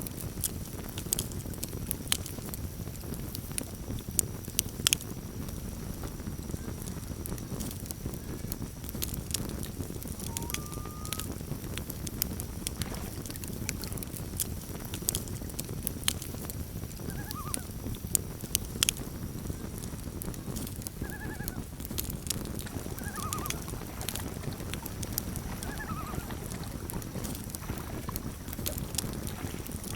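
Campfire burning with a steady low rumble and frequent sharp crackles and pops. A few faint short animal calls come through now and then from about a third of the way in.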